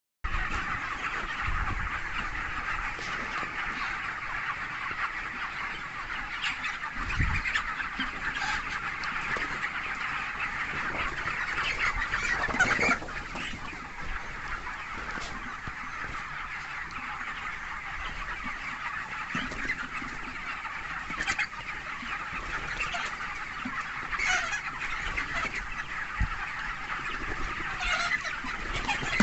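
A large flock of 23-day-old broiler chickens calling without a break, many overlapping chirps and clucks blending into one continuous chatter.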